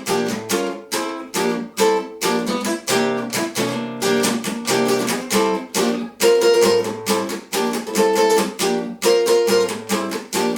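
Guitar strummed, playing chords in a steady rhythm.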